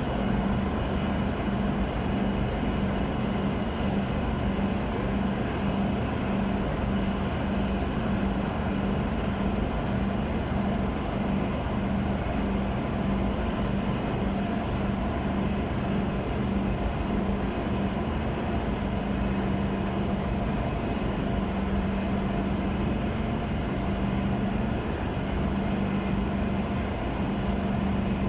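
Diesel train engines idling with a steady drone and hum.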